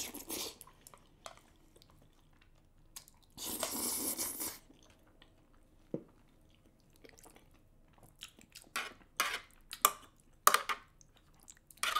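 Close-miked eating of saucy black bean rice cakes and noodles: chewing and wet mouth sounds, with a longer noisy mouth sound about four seconds in. From about eight seconds in, a run of short sharp clicks and scrapes as metal chopsticks dig into the metal tray.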